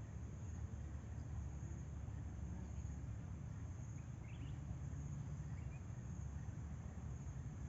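Insects trilling steadily at a high pitch over a low, steady rumble, with two short chirps near the middle.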